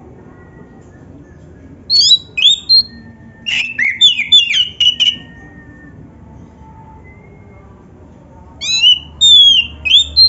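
Oriental magpie-robin (kacer) singing: loud bursts of sharp, falling whistled notes, with one short phrase about two seconds in, a longer rapid run near the middle, and another phrase near the end.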